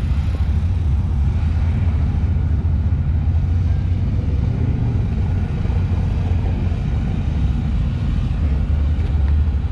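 Steady low rumble of a car driving slowly, engine and road noise heard from inside the vehicle.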